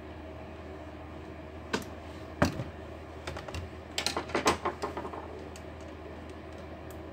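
Clicks and light knocks of a plastic laptop case being handled during a repair. There is one click, then a louder knock, then a quick cluster of clicks about a second later, over a steady low hum.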